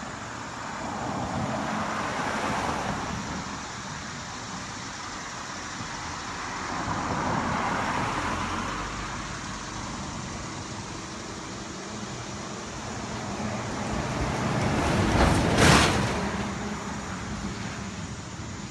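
Cars passing by one after another, three passes each swelling and fading away, the third the loudest and closest about fifteen seconds in.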